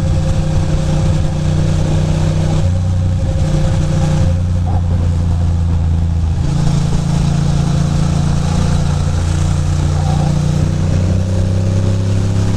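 Ducati Monster 620's air-cooled L-twin engine running under way, its pitch stepping up and down a few times as the speed changes, with steady wind and road noise.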